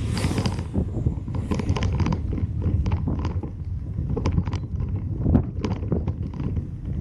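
A car driving: steady low rumble of the road and engine, with many irregular sharp clicks and ticks over it and a brief hiss at the very start.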